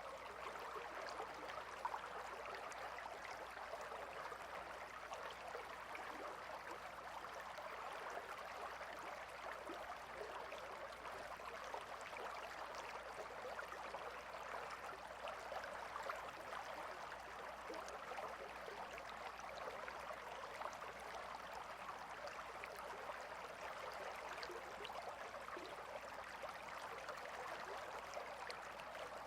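Gentle river flowing, a steady, faint burble of running water with fine splashy ticks throughout.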